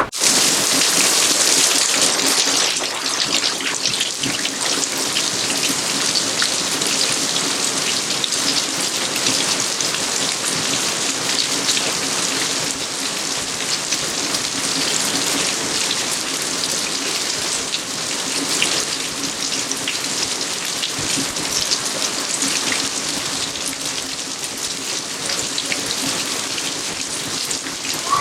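Steady heavy rain falling on outdoor surfaces, a dense patter of countless drops.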